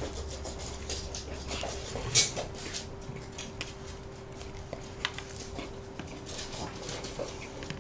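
Close-miked chewing and mouth sounds of someone eating soboro bread (Korean streusel-topped bun), with small clicks and one louder smack about two seconds in. A faint steady hum runs underneath.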